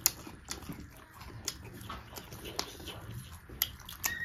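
Chewing and lip-smacking of people eating: short wet smacks and clicks at uneven intervals, the sharpest right at the start.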